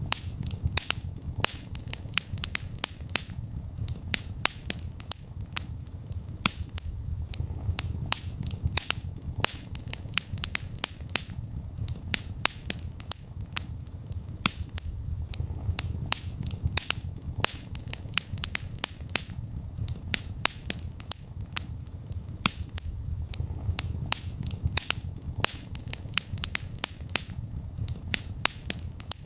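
Wood fire burning in a fireplace: dense, irregular crackles and sharp pops, several a second, over a steady low rumble of the flames.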